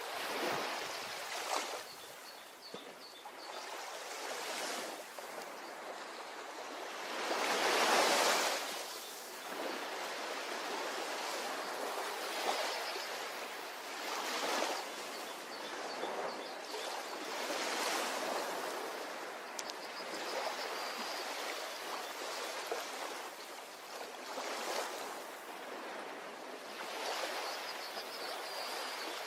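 Sea waves breaking and washing up a beach, a steady surf hiss that swells and falls with each wave. The largest swell comes about eight seconds in. Faint high chirps come through now and then.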